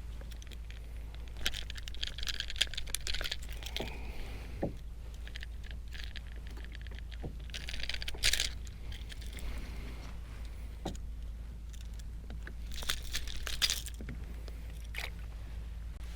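Intermittent jangling and rattling of the lure's hooks and tackle, with light knocks on the kayak, as a small hooked bonito is worked free; it comes in three bouts over a steady low rumble.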